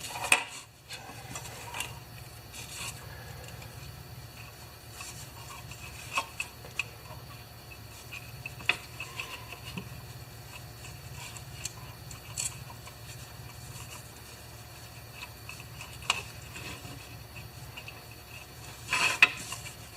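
Starter rope being fed and rubbed through the plastic pulley of a Honda HR214 recoil starter: light scraping and rubbing with scattered small clicks, over a steady low hum. A short louder scrape comes near the end.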